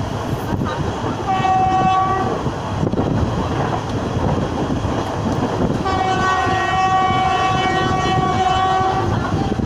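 Indian Railways express train running at speed, a steady rush of wheel-on-rail noise heard from one of its coaches. The locomotive's horn sounds twice: a short blast about a second in, then a long blast of about three seconds starting around six seconds in.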